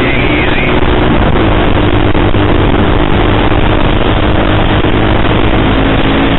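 KTM sportbike's single-cylinder engine running at a steady speed while riding, under heavy wind noise on the microphone.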